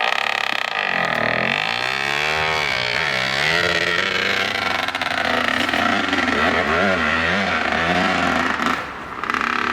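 Dirt bike engine revving hard, its pitch swooping up and down again and again as the throttle is worked. It drops away briefly near the end, then picks up again.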